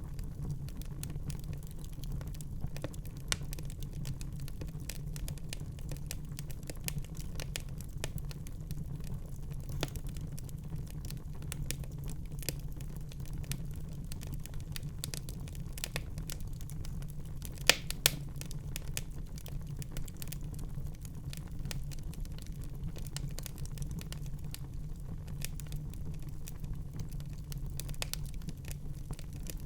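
Wood fire crackling in a fireplace: a dense scatter of small crackles and snaps over a steady low rumble, with two louder pops close together about eighteen seconds in.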